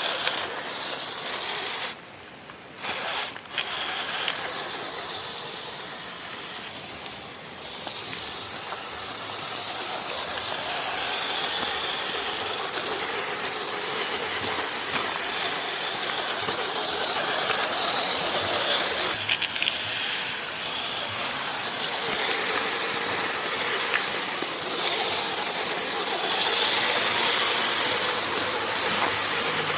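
Steady hiss of rain, mixed with the whirr of a 1/12-scale RC crawler's brushed electric motor and gearbox as it drives, with a brief drop in level about two seconds in.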